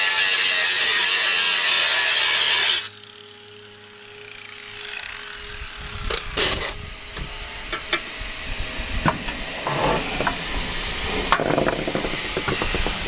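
Sheet-metal work: a loud, steady power-tool noise stops suddenly about three seconds in. It is followed by scattered clicks, knocks and scraping of metal pieces being handled and fitted.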